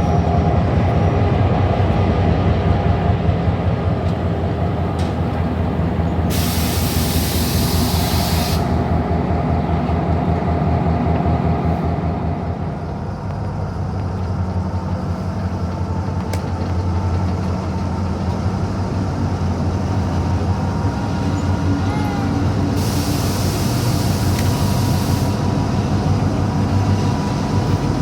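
Passenger train heard from on board: steady low engine and running rumble with a fast fine rhythm. Twice, about six seconds in and again about 23 seconds in, comes a sharp-edged burst of compressed-air hiss lasting about two seconds.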